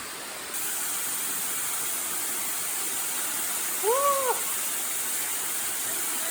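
Steady rushing noise of a waterfall. About four seconds in comes a single short call that rises and falls in pitch.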